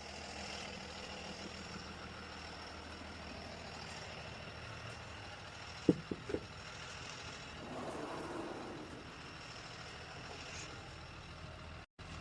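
Steady low hum of a vehicle engine running, with a few short clicks about six seconds in.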